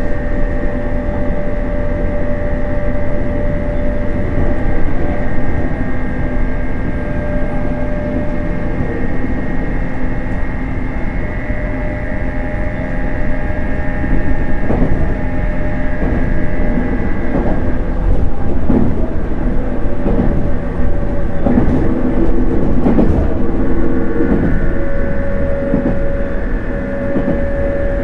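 Running sound of a JR East 719 series 5000-subseries electric train on the move, heard from inside the car: a steady rumble of wheels on rail under a motor-and-gear whine whose pitch shifts partway through. In the second half come a few clicks of the wheels crossing rail joints.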